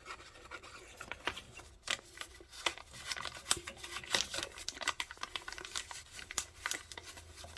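A dollar bill rubbed and crinkled against a gas furnace's flame sensor rod, in irregular scratchy crackles, scrubbing soot off a sensor that lets the burner light but not stay lit.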